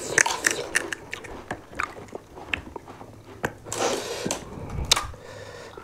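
Panipuri being eaten: crisp hollow puri shells cracking and crunching between the teeth, then wet chewing of the filled puris, with many short crackles throughout.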